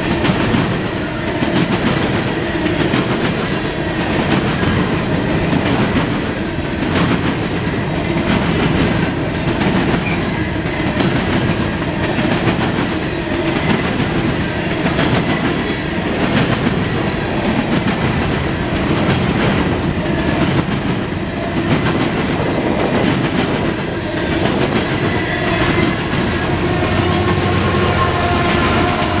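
Freight train of covered hopper cars rolling past, the wheels clattering over the rail joints with a steady rumble. Near the end a mid-train GE AC4400CW diesel locomotive comes alongside and its engine hum rises over the car noise.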